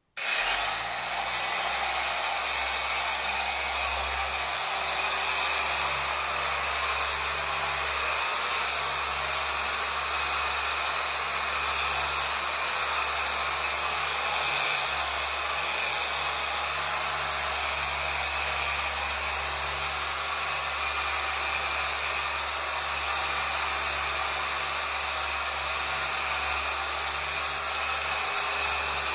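Chicago Electric 6-inch dual-action orbital polisher switching on and spinning up within half a second, then running steadily with a high whine as its scrub pad works over the wet mattress fabric.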